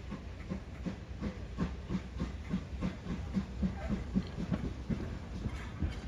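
Train on the move: a steady low rumble under a regular beat that quickens slightly.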